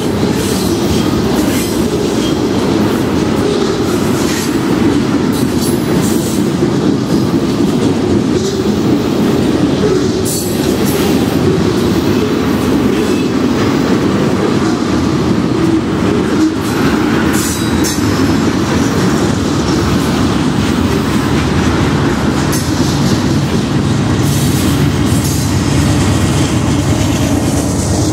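Freight train of ethanol tank cars rolling past: a steady rumble of steel wheels on rail with irregular clicks and knocks from the wheels over the track. Near the end the steady drone of the rear diesel locomotive's engine comes in as it draws level.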